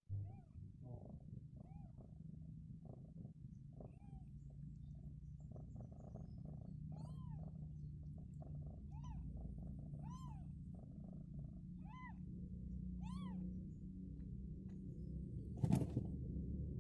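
Newborn kittens mewing: about a dozen short, high cries, each rising and falling, over a steady low purr from the mother cat. A single sharp knock sounds near the end.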